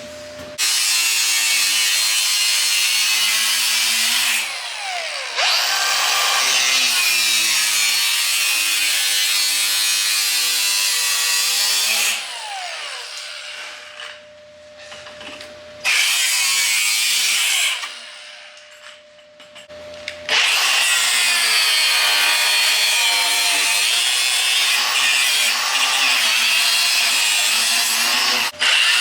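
Handheld power tool working the truck body's sheet metal in four long runs, each one spinning down when it stops.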